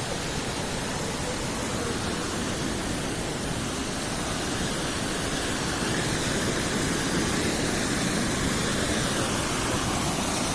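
Waterfall water rushing and splashing, a steady hiss that gets a little louder about halfway through.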